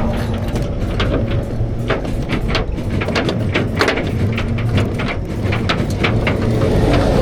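A vehicle engine running steadily, with many irregular clicks and knocks over it.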